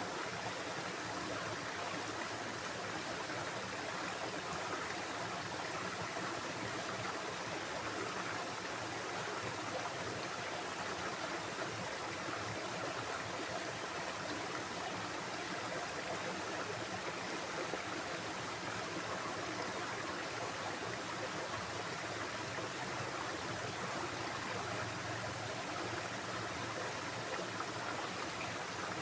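Flowing water making a steady, even rushing sound with no breaks or changes.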